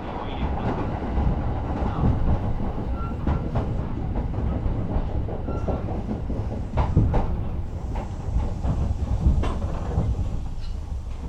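A Kintetsu Suzuka Line electric train running along the track. A steady low rumble is broken by sharp clacks now and then as the wheels pass over rail joints.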